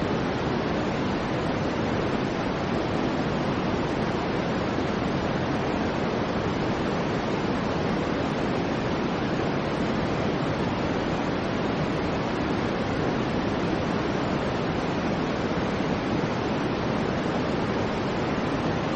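Soft white noise for sleep: a steady, even hiss with no changes, heavier in the low and middle range than at the top.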